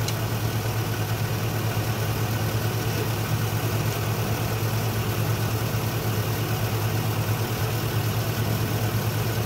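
Isuzu truck engine idling steadily, heard from underneath the vehicle while its automatic transmission is filled to level.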